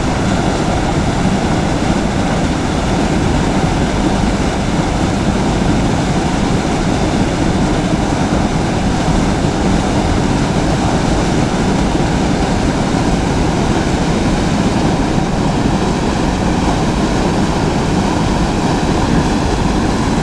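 Steady rush of flowing river water, loud and unbroken.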